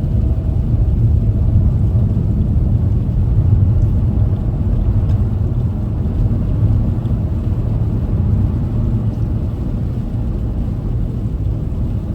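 Steady low rumble of a car driving on a snow-covered highway, heard from inside the cabin: engine and tyre noise.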